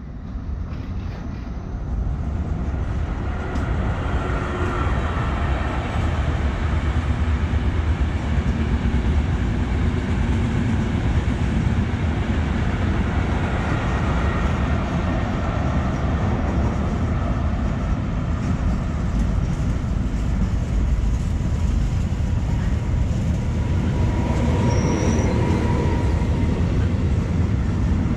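Trenord regional passenger train approaching and running past along the platform: a steady low rumble of wheels on rail, with a few faint whining tones and a short high squeal about 25 seconds in.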